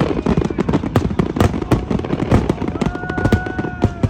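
Aerial fireworks going off: a dense run of sharp bangs and crackles, with a steady whistling tone for about a second and a half in the second half.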